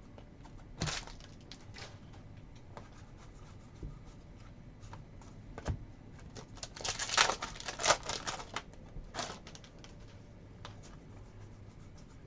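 Sports trading cards and their pack wrappers being handled: scattered light clicks and taps, with a louder spell of rustling and crinkling about seven to eight and a half seconds in.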